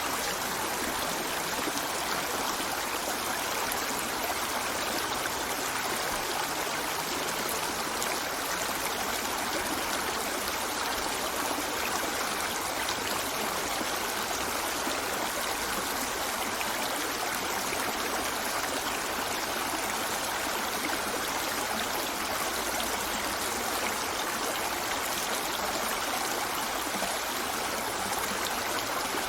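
A river flowing steadily over stones, an even rushing and burbling of water with no breaks.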